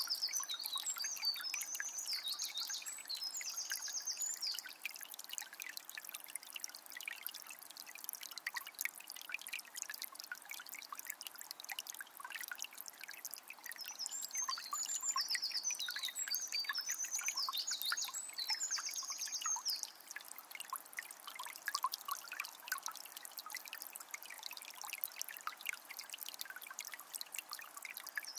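Forest river flowing steadily, with a continuous trickling, babbling water sound. A songbird sings a bright, trilling phrase near the start and again about halfway through.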